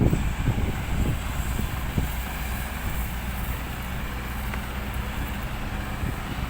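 Heavy diesel engines of an excavator and ten-wheel dump trucks running steadily while soil is loaded, with several heavy knocks in the first two seconds.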